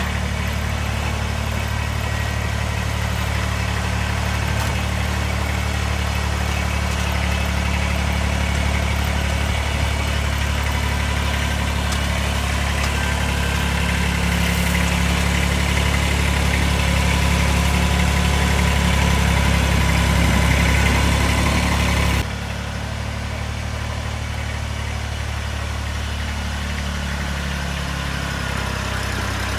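Kubota BX2380 sub-compact tractor's three-cylinder diesel engine running steadily while plowing snow. The level drops suddenly about 22 seconds in, and the engine pitch wavers near the end.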